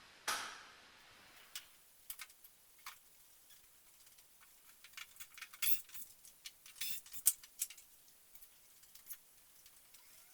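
A short whoosh just after the start, then a scattered run of light clicks and metallic clinks from small hardware or tools being handled, densest in the middle.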